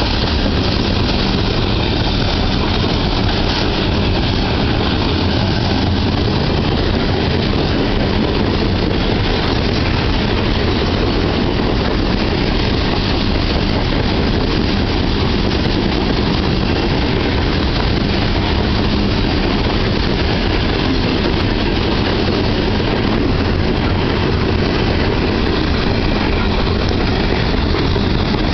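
Loaded coal hopper cars of a freight train rolling past close by: a steady, loud noise of steel wheels running on the rails that does not let up.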